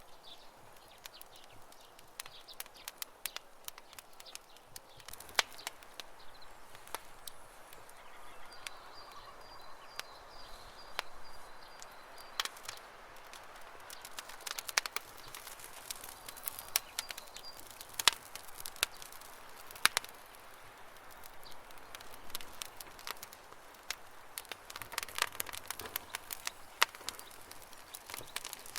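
Campfire burning, wood crackling with irregular sharp snaps and pops over a soft steady hiss. A bird chirps faintly in the background, a short run of high repeated notes about a third of the way in.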